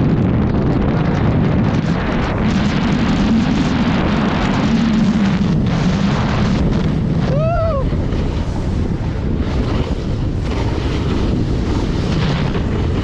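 Heavy blizzard wind buffeting the microphone, loud and steady. A brief rising-and-falling tone comes through it about seven and a half seconds in.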